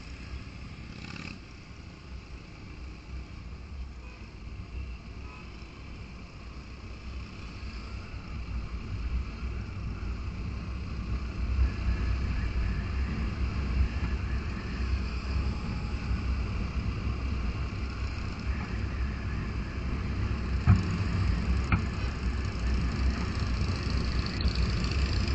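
Vehicle engine and road rumble, deep and steady, growing louder from about eight seconds in and staying up, with two brief sharp clicks near the end.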